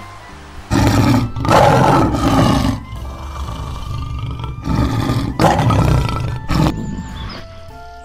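Lion roaring: a series of loud, rough calls, the first starting just under a second in and the last, short one near the end.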